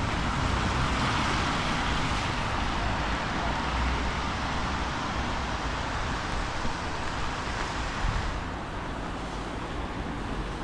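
Wind gusting over the microphone, with uneven low buffeting, over a steady street hiss that swells in the first few seconds and eases a little near the end.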